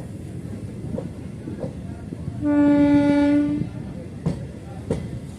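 A train horn sounds one steady blast of just over a second, about halfway through. Underneath is the constant running rumble of a moving MEMU train, with a few sharp clicks of wheels crossing rail joints.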